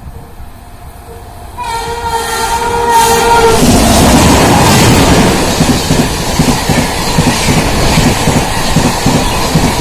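WAP-7 electric locomotive's twin-tone horn sounding one blast of about two seconds. The LHB express then rushes past at speed, loud, with wheels clattering rhythmically over the rail joints.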